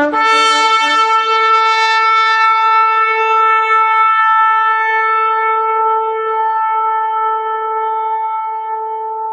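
One long shofar (ram's horn) blast. It opens with a brief lower note, jumps to a single high note and holds it for about nine seconds, fading a little near the end.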